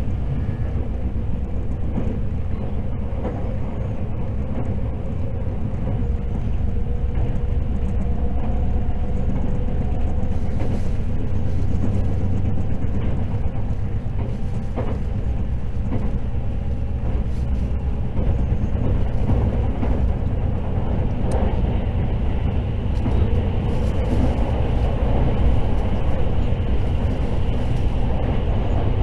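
Running noise of the Hakutaka limited-express electric train heard inside the passenger car: a steady low rumble of wheels on rail. Over the last several seconds it grows fuller and somewhat louder as the train runs into a tunnel.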